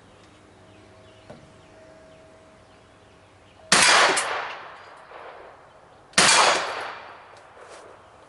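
Two shots from a Kel-Tec Sub-2000 9mm carbine fitted with a sound mitigation device, about two and a half seconds apart, each a sharp report followed by an echo that fades over about a second.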